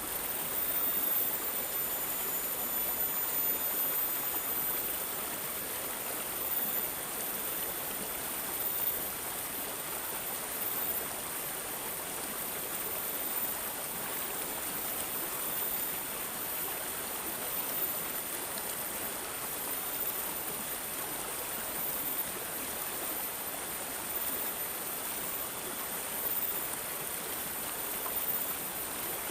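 Water gurgling and babbling steadily, a continuous rushing trickle with small swells every few seconds.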